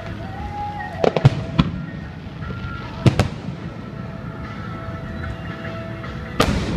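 Fireworks shells bursting in sharp bangs: a quick cluster of four about a second in, a close pair around three seconds, and one more near the end.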